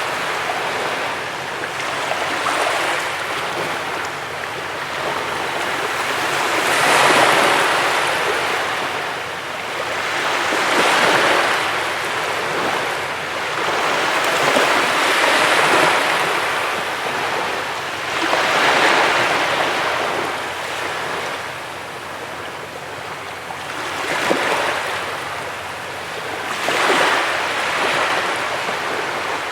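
Sea waves breaking on a beach: a continuous wash of surf that swells and falls back roughly every four seconds as each wave comes in.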